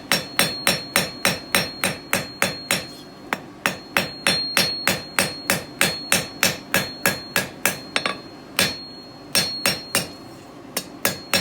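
Blacksmith's hand hammer striking hot steel on an anvil, forging a fire steel bar: a quick, even run of blows, about three a second, with each blow ringing. The hammering breaks off briefly a few times.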